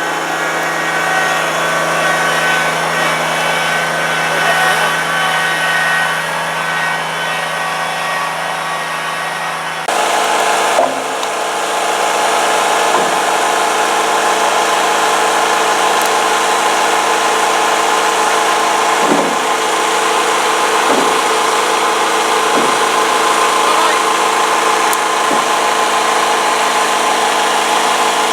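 A steady motor running with an even drone, switching abruptly about ten seconds in to another steady motor sound, with a few faint knocks later on.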